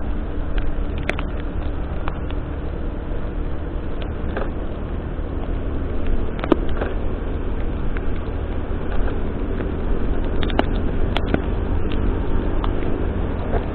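Vehicle driving on a rain-wet road: a steady low rumble of engine and tyres, with scattered sharp ticks.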